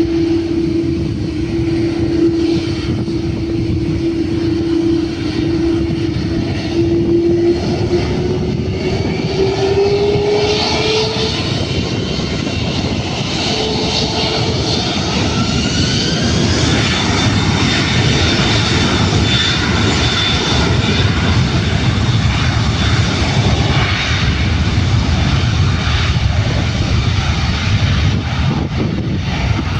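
Airbus A330-300 twin turbofan engines running loud, with a steady whine that starts rising in pitch about a third of the way in and then levels off higher, over a broad jet rush: the engines spooling up to takeoff thrust.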